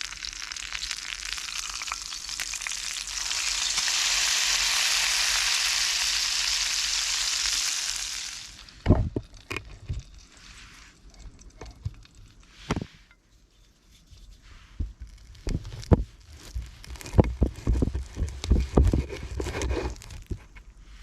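Food sizzling as it fries in a pan over a campfire, a loud steady sizzle that grows louder a few seconds in and cuts off suddenly after about eight seconds. After that come scattered knocks, clicks and low thumps of handling.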